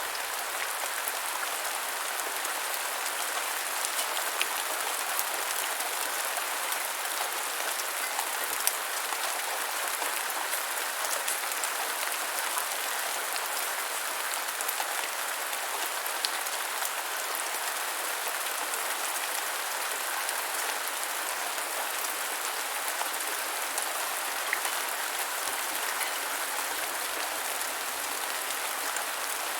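Steady rain falling on the ground: an even hiss of many drops, with now and then a single louder drop tick.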